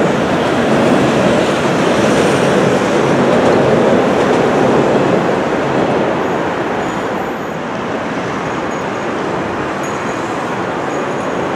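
An orange JR West 201 series electric train running past on the rails, a steady dense rumble of wheels and running gear. The sound eases off a little after about seven seconds as the train clears, leaving steady rail and city background noise.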